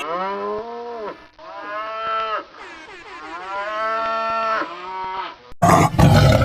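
Cow mooing three times, long low calls that bend in pitch, the last one the longest. Near the end a sudden loud, rough noise cuts in.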